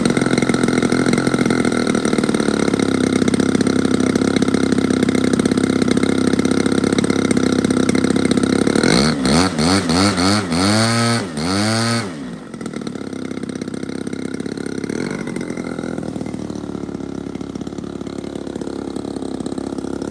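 Pilot RC Pitts Challenger model biplane's engine running steadily at a fast idle, then revved up and down several times about nine to twelve seconds in, before settling to a lower, quieter idle.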